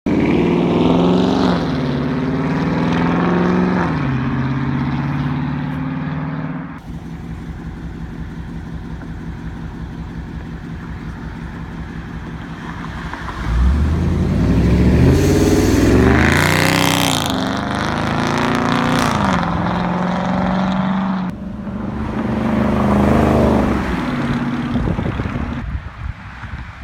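Dodge Charger Daytona's Hemi V8 with the mid-muffler deleted: revved twice, then running with a steady pulsing burble, then a loud surge of acceleration that sweeps up in pitch as the car passes, with one more rev before the sound fades near the end.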